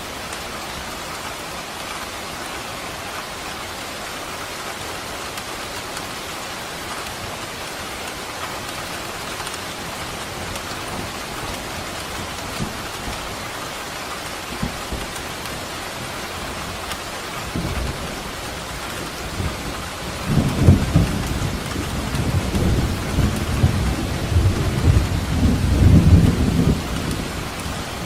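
Steady rain falling, with thunder rumbling in low, uneven surges that start about two-thirds of the way through and peak near the end.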